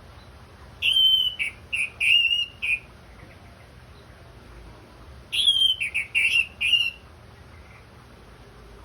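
Orange-headed thrush singing: two short phrases of clear whistled notes, each lasting about two seconds, the second beginning about four and a half seconds after the first.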